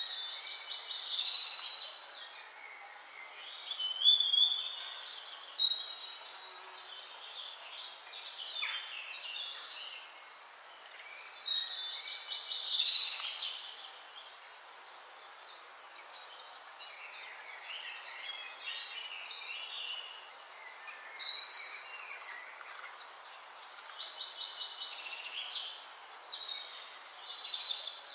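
Birds singing: bursts of quick chirping, trilling song phrases recur every few seconds, the loudest about four, twelve and twenty-one seconds in, over a steady background hiss.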